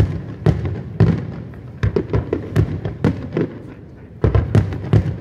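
Aerial firework shells bursting in quick, irregular succession: a dozen or more sharp bangs, each with a short rumbling tail, thickening into a rapid cluster about four seconds in after a brief lull.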